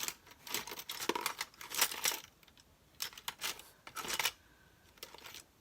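Paper being handled, rustling and crinkling in several short bursts.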